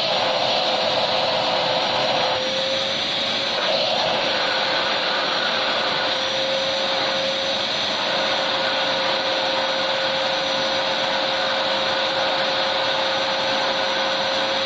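Electric vacuum cleaner running steadily, a constant airy roar with a steady whine. It shifts slightly in tone every few seconds.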